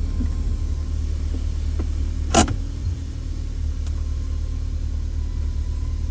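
A car's engine idling, a steady low rumble heard from inside the cabin, with one sharp click about two and a half seconds in.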